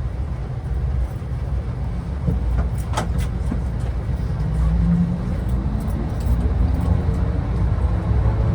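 Automated airport people-mover train pulling away, a steady low rumble inside the car with a whine from its electric drive rising in pitch as it picks up speed from about halfway on. A single sharp click about three seconds in.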